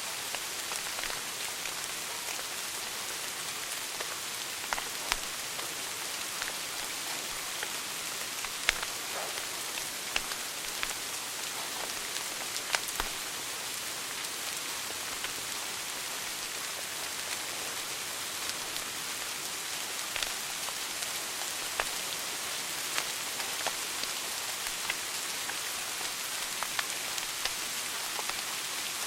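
Wood fire burning in a fireplace: a steady hiss with irregular sharp crackles and pops from the burning logs, a few louder pops standing out.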